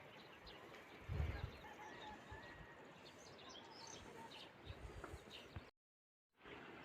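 Birds chirping faintly over quiet outdoor background, with a low thump about a second in. The sound cuts out completely for about half a second near the end.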